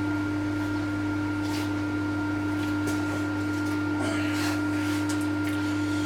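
Steady mechanical hum of a workshop machine's electric motor left running, with a few faint rustles and clicks.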